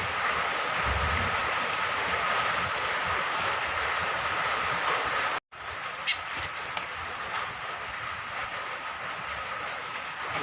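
Steady hiss of falling rain. It cuts out completely for an instant about halfway through, then returns slightly quieter with a single short, sharp high sound just after.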